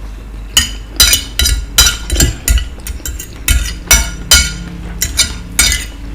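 Metal cutlery clinking and scraping against a plate while eating, about a dozen quick, irregular clinks.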